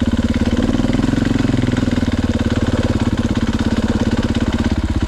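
Single-cylinder four-stroke enduro dirt bike engine, an FE 501, running at low revs just off idle with an even pulsing beat.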